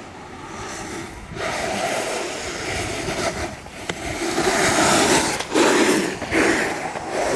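Board wheels rolling and scraping over pavement at speed, a continuous rushing rumble that swells and dips, louder from about a second and a half in, with wind noise on the microphone.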